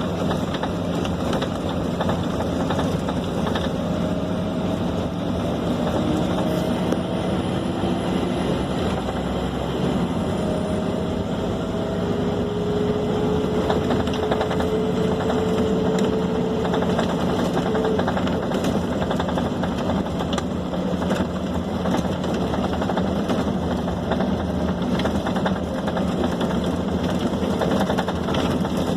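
Scania K270 city bus heard from inside while under way: steady engine drone and road noise, with a faint whine that slowly rises in pitch twice as the bus picks up speed.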